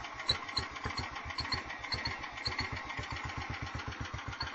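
Sears SS14 garden tractor engine running on its own just after a cold start, a steady chugging beat while it warms up. A light ticking sits over the beat for the first half.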